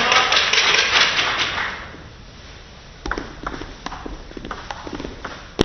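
Spectators' clapping and applause after a point, dense for about two seconds and then dying away. Then scattered sharp taps of a celluloid table tennis ball, with one loud crack near the end.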